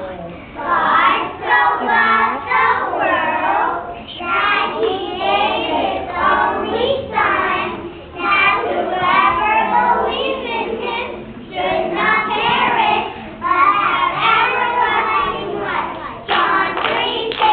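A group of preschool children voicing a Bible verse together in unison, in phrases of a few seconds broken by short pauses for breath.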